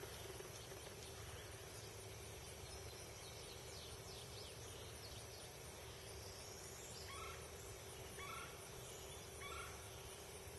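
Faint steady outdoor background with a constant low hum, and a bird calling three times, about a second apart, in the second half.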